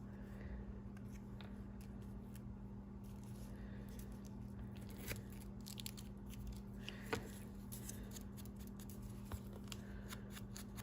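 Faint handling of paper and cards, with scattered small clicks and taps, over a steady low hum.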